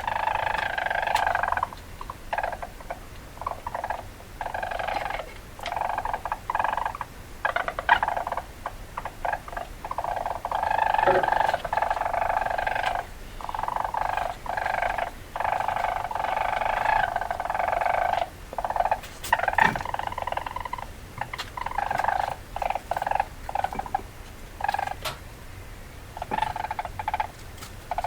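Weasel chattering: rapid trilling bursts, some brief and some lasting a couple of seconds, broken by short pauses.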